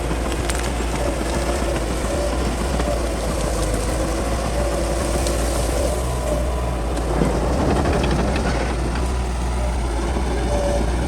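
Bulldozer's diesel engine running steadily under load while clearing brush, with a deep hum and a wavering tone, and a few sharp clicks scattered through it.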